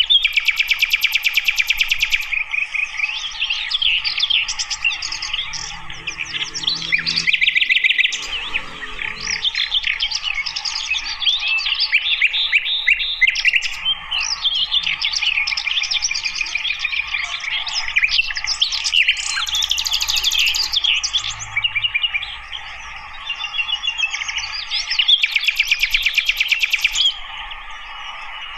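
Sikatan londo flycatcher singing: a continuous stream of quick, varied chirps and twitters, broken by loud, rapid trills at the start, around twenty seconds in and again near the end. A faint steady hum sits beneath the song.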